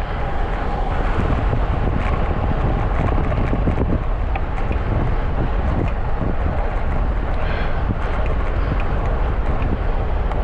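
Steady wind rumble on an action camera's microphone while riding a bicycle, with light ticks and rattles from the bike on the road. A faint, brief tone sounds about seven and a half seconds in.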